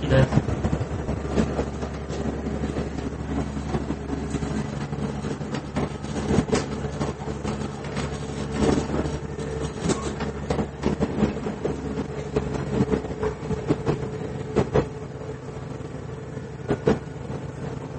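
Running sound inside a KiHa 110 series diesel railcar: a steady drone with several held tones, and wheels knocking over rail joints now and then. The deepest part of the rumble drops away about four seconds in.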